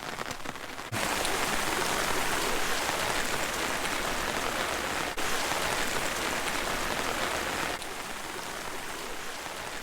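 Steady rain pattering on an umbrella held overhead, an even, dense hiss of drops. It gets abruptly louder about a second in and softer again near the end.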